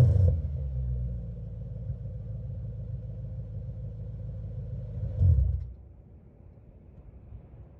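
Audi B6 S4's 4.2-litre V8, straight-piped, settling to a low idle rumble after a light rev. About five seconds in there is a short louder burst, and then the engine sound drops to a faint level.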